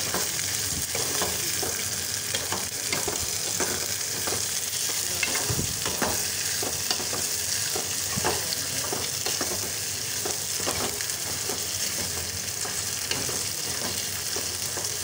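Sliced capsicum and onion sizzling as they fry in hot oil in a metal pan, with a spatula stirring and scraping against the pan in irregular strokes.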